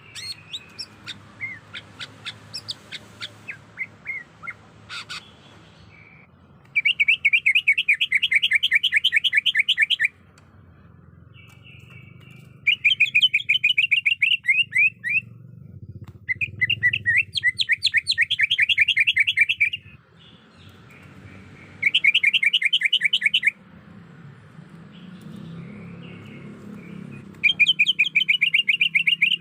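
Greater green leafbird (cucak ijo) song: a run of quick down-slurred chirps, then five loud bouts of fast repeated rattling notes, each two to three seconds long, with short pauses between.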